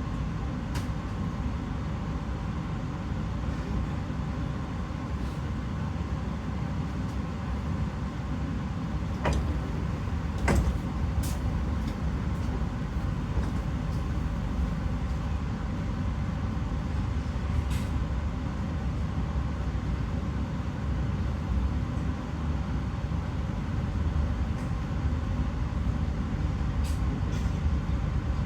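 Steady low rumble heard inside a passenger train coach, with a couple of sharp knocks about nine and ten seconds in.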